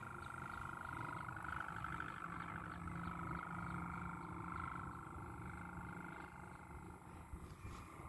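Hummer bow (busur) on a flying Malaysian wau kite droning in the wind, a steady wavering hum that swells and eases with the gusts, over low wind rumble on the microphone.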